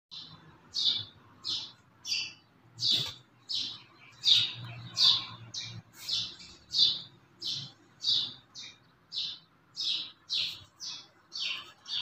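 A small bird chirping over and over, a short high note repeated about three times every two seconds.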